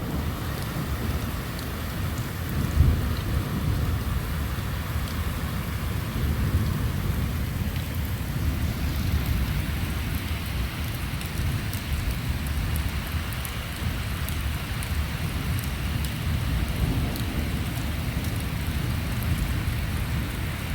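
Thunderstorm: rain falling steadily while low thunder rumbles on after a nearby lightning strike, with one brief louder knock about three seconds in.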